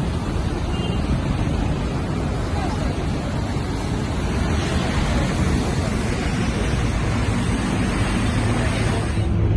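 Scania K230UB city bus accelerating hard with the throttle floored: diesel engine drone under a heavy wash of road and wind noise, getting gradually louder. Near the end the hiss cuts off abruptly and a steadier low engine drone comes up.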